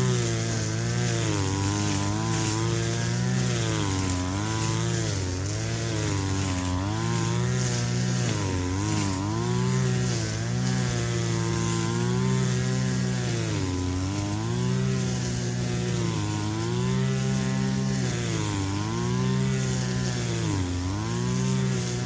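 Two-stroke brush cutter engine running near full throttle, its pitch sagging and recovering every second or two as the blade loads up in the grass and frees again.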